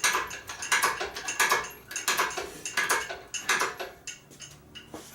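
Rhythmic metallic clinking, about one clink every three-quarters of a second, each ringing briefly, fading out about four seconds in.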